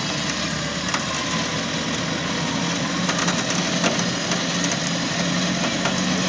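Off-road vehicle's engine running steadily, with a few sharp knocks and rattles over it.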